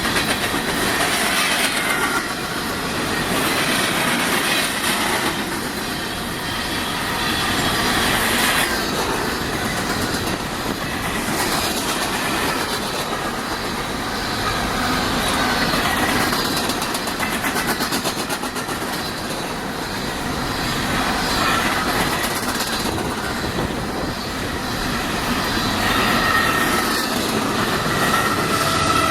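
Freight cars of a coal train rolling past at speed: a steady rumble and clickety-clack of wheels over the rails that swells and eases every few seconds. Faint wheel squeal rises near the end.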